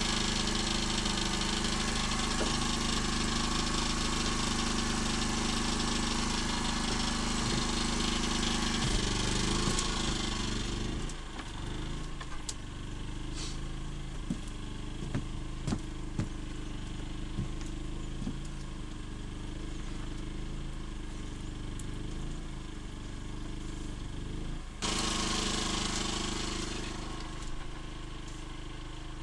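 An engine running steadily. It drops to a quieter, lower setting about eleven seconds in, with a few sharp clicks, then jumps back up abruptly near the end.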